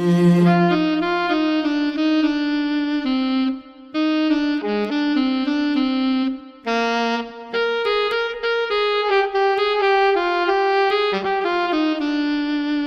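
Saxophone playing a jazz melody of quick, changing notes in phrases, with short breaks about three and a half and six and a half seconds in.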